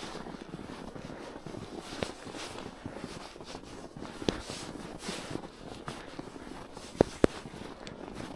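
Footsteps crunching through snow at a walking pace. A few sharp clicks cut through, the loudest two in quick succession about seven seconds in.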